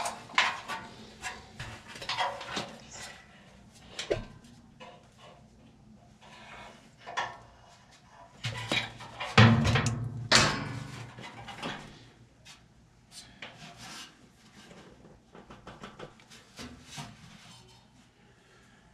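Hand work on a furnace blower's motor mount: irregular scraping, rubbing and clicking of metal parts and tools. The loudest burst of knocks and scrapes comes about nine to ten seconds in.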